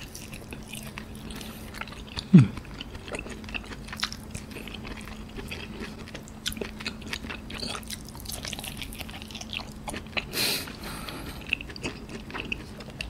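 Close-miked chewing of soft, pink-centred A5 wagyu beef: wet mouth clicks and smacks throughout. About two seconds in, a brief, louder low sound slides down in pitch.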